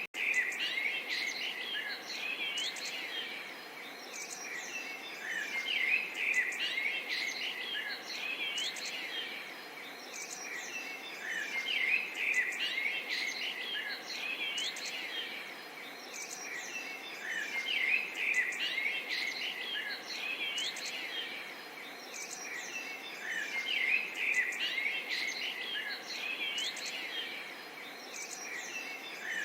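Small songbirds chirping and twittering, many calls overlapping and swelling about every six seconds, over a steady soft rush of gently babbling water.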